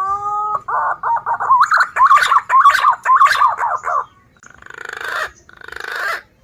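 Recorded lure call of wild green pigeons (punai). A rising whistled note leads into a rapid run of warbling whistles, followed by two harsh, buzzing calls near the end.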